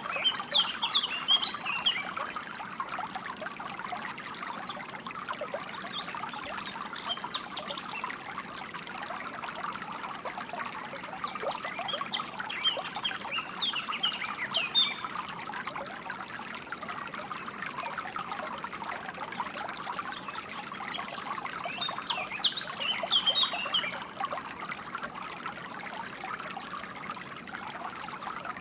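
Flowing water trickling steadily, with songbirds breaking in with short bursts of quick chirps a few times, near the start, around the middle and about three-quarters through.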